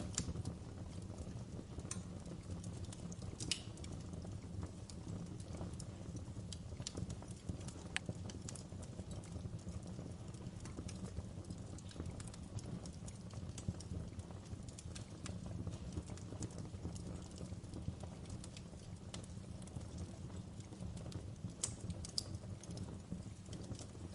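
Fire crackling: scattered sharp pops and snaps at irregular intervals over a steady low rumble.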